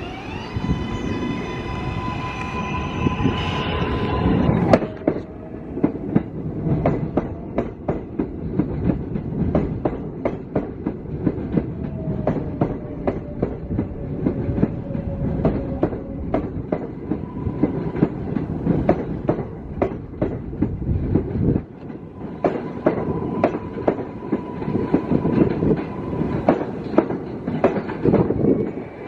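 New York City subway train on the L line running past the platform, its wheels clicking steadily over the rail joints under a continuous rumble. A high, many-toned ringing sounds over it for the first four seconds.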